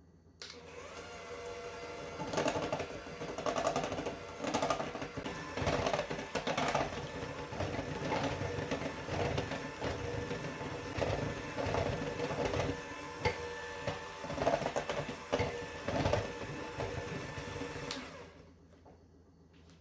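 Electric kitchen mixer running, switched on about half a second in and off near the end, its steady motor hum broken by uneven knocking and swells as the beaters work the bowl.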